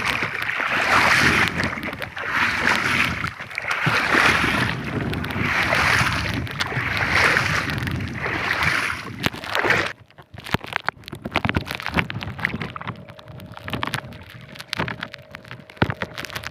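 Rhythmic splashing of water beside a small fishing boat, one splash about every second and a half, stopping suddenly about ten seconds in; after that, scattered knocks and clicks.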